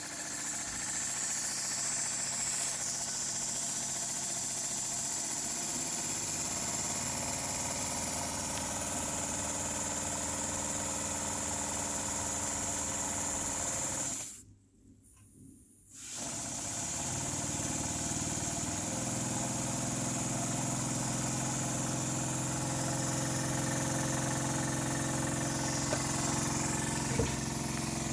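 Model steam engine running on compressed air: a steady mechanical run with a hissing exhaust. About halfway through it stops abruptly for a second or two, then starts again and comes back up to speed.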